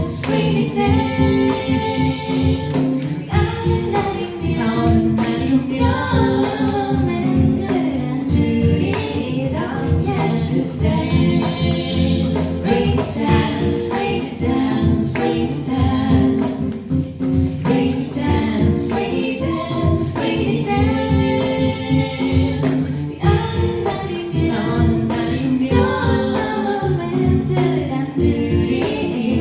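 Live band playing a pop song, with a steady drum beat and singing.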